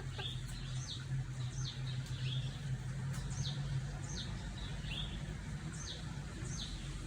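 A bird calling over and over: short, high chirps that each sweep downward, about one or two a second, over a steady low hum.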